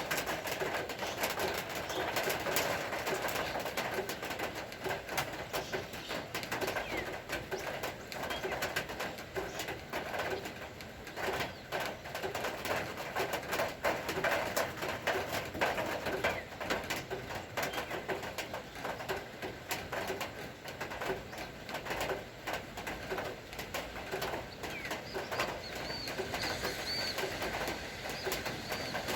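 Rain falling steadily, with dense drops ticking and birds calling.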